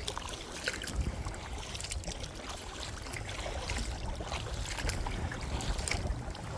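Wind buffeting the microphone in a low, steady rumble, with small scattered splashes and drips of water around a kayak.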